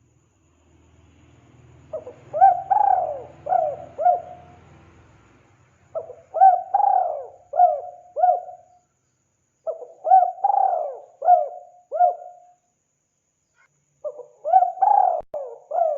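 Spotted dove cooing: four phrases of several coos each, one about every four seconds, with short silences between them.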